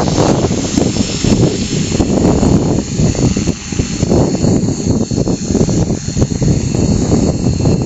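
Align T-Rex 450 Pro electric RC helicopter flying low, its rotor whirring and electric motor whining steadily at a high pitch, with uneven rushing rotor wash underneath.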